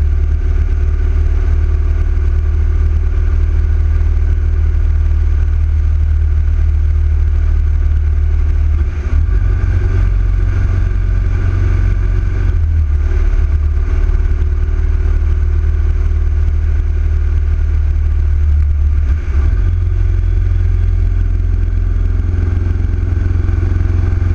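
Big-bore Yamaha XV1900 V-twin motorcycle engine running under way, with a heavy low rumble; its sound shifts briefly twice, about nine and nineteen seconds in.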